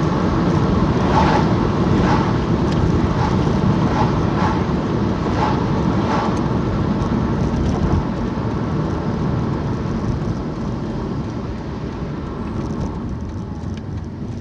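Steady road and engine noise heard from inside a moving vehicle, with a few faint knocks in the first half. It grows quieter over the last few seconds, as when the vehicle slows.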